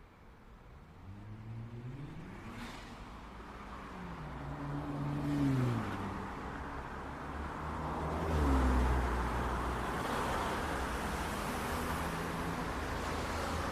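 City street traffic: cars accelerating and passing, their engine notes rising and then falling, then a heavier low rumble from a passing vehicle a little past the middle, settling into a steady traffic hum.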